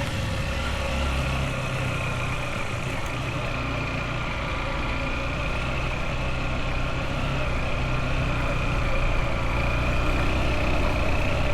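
Motorbike engine running steadily while riding along a road, getting a little louder near the end.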